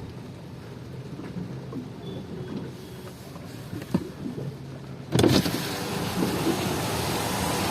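Rain and traffic heard muffled from inside a car, with a few light knocks. About five seconds in, the sound jumps suddenly to a loud, steady hiss of rain and street noise as the cabin is opened to the outside.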